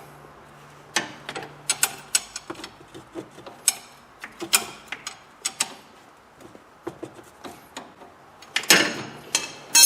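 Irregular metal clicks and clinks of a wrench working the nut onto the upper stud of an Audi A4 B8 front stabilizer link, with a louder run of clicks near the end.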